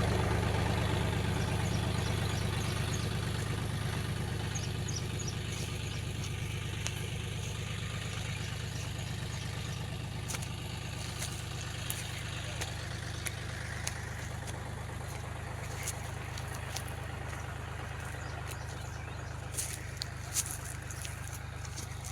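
Tractor engine running at a steady speed, a low hum that slowly fades, with scattered faint sharp clicks in the second half.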